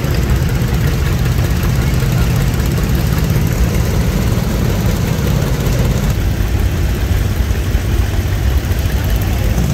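Old farm tractor engines running steadily as tractors drive past in a parade, a continuous low rumble.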